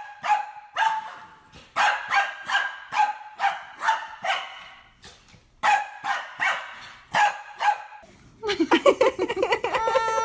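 A puppy giving a rapid run of short, high-pitched yips and barks, several a second. Near the end this gives way to a longer, wavering cry that rises in pitch.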